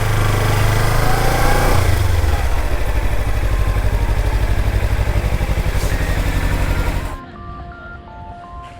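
Kawasaki Ninja 300's parallel-twin engine running at low speed with an even, pulsing exhaust note. It drops away abruptly about seven seconds in, leaving faint background music.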